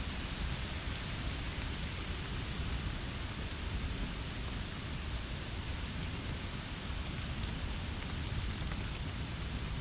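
Steady rain falling, with scattered small ticks of individual drops.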